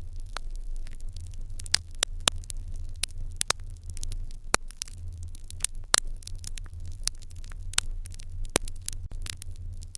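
Wood fire in an irori hearth crackling, with sharp, irregular pops over a low steady rumble.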